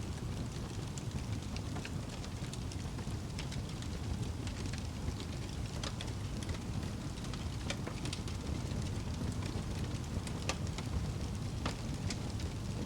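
Wood fire burning in a fireplace: a steady low rumble of flames with irregular sharp crackles and pops, roughly one a second.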